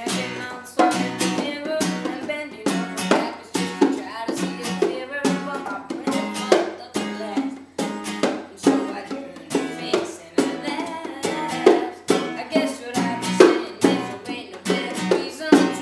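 Acoustic string instrument strummed in a steady rhythm, playing chords in an instrumental passage of a song.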